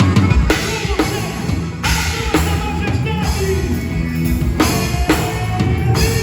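Live band music: a drum kit hitting over sustained pitched instruments.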